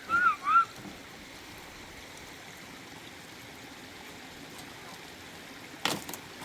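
Steady rushing water noise, opening with three short, high, arched chirps and with a brief sharp sound near the end.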